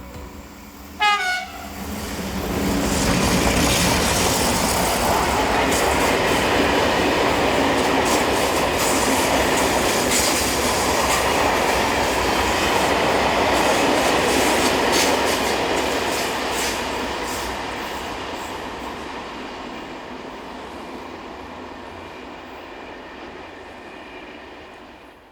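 Train with a Class 335 diesel locomotive in its consist giving a short horn blast about a second in, then passing close by with loud wheel-and-wagon clatter and repeated clicks. The noise fades gradually over the last ten seconds as the train moves away.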